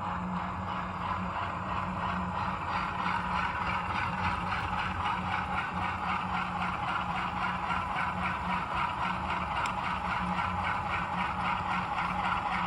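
Loksound sound decoder in an HO-scale model locomotive playing a 16-cylinder Alco 251C diesel engine running, through the model's small onboard speaker. The engine sound is steady with an even, rhythmic pulsing.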